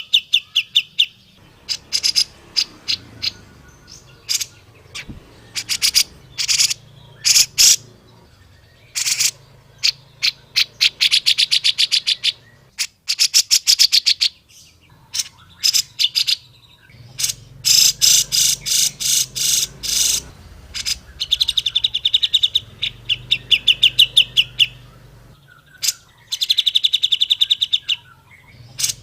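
Grey-cheeked bulbul (cucak jenggot) calling in repeated bursts of rapid, chattering notes, each phrase a second or two long with short pauses between.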